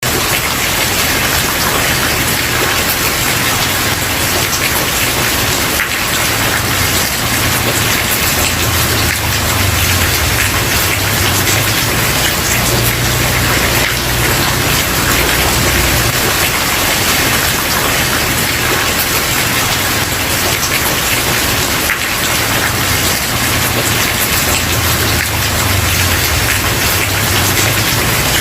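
Steady heavy rain falling on a wooden porch, a dense even patter with no sudden drops standing out. Underneath runs a low rumble that swells and fades.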